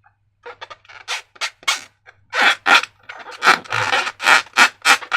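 Slime being worked by hand: a run of short squishing, rubbing strokes that begin about half a second in and come faster and louder in the second half.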